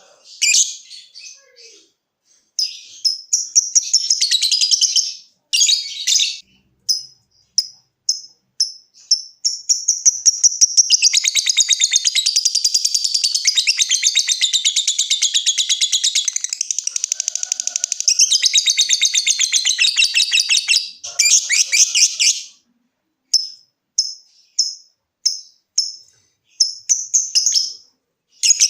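Lovebird calling with high-pitched chirps. Short separate bursts come first, then about ten seconds in a long unbroken run of very rapid, evenly pulsed chattering lasting about ten seconds: the 'ngekek' song that keepers prize. Short chirps follow again near the end.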